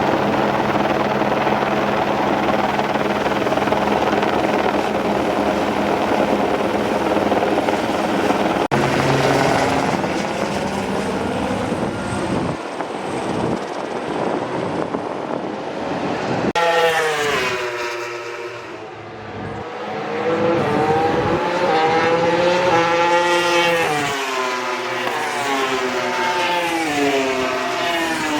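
A low-flying helicopter with a steady engine and rotor drone. About nine seconds in the sound cuts abruptly, and from about seventeen seconds MotoGP racing motorcycles pass, their engines repeatedly revving up and dropping through gear changes.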